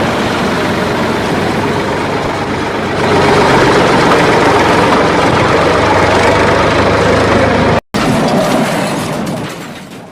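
A vehicle engine running steadily. It gets louder about three seconds in, cuts out for an instant near eight seconds, then fades away near the end.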